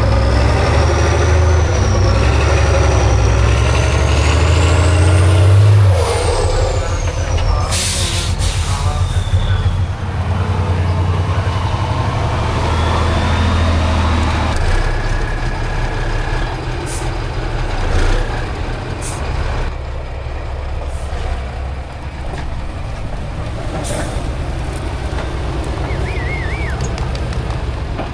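Heavy diesel truck engine working hard under load, easing off later on. A high whistle climbs for several seconds then falls away, and a burst of hiss comes about eight seconds in.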